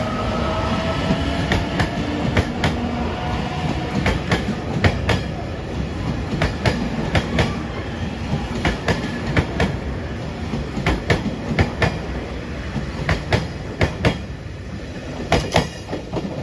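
JR Shikoku 8000 series limited express electric train departing and accelerating past, with a motor whine rising in pitch over the first few seconds. Its wheels clack over rail joints again and again above a steady rolling rumble.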